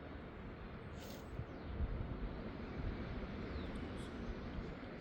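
Steady rush of sea surf with a low rumble of wind, and a few faint, brief bird chirps about a second in and again near four seconds.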